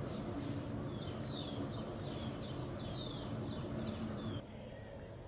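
Bird chirping in a quick run of short falling notes; about four seconds in it cuts off and a steady high insect buzz takes over.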